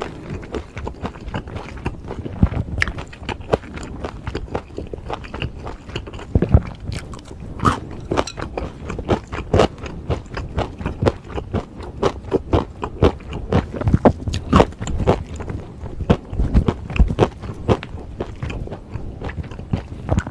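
Close-miked eating: wet chewing and smacking of beef bulgogi with bean sprouts and glass noodles, with many irregular crisp mouth clicks and an occasional scrape of the spoon in the pan.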